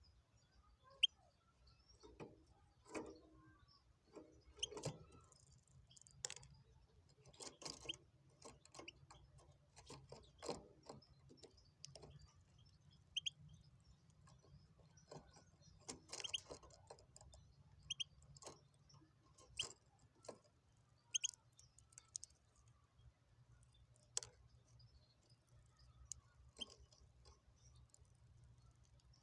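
Goldfinch × canary hybrid (mule) giving occasional short, high chirps, about half a dozen spread through, among many faint clicks and taps.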